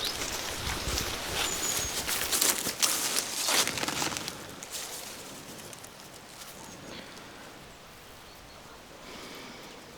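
Irregular crunching and rustling steps, like footsteps on the ground, for about the first four seconds. After that the sound falls to quieter outdoor ambience.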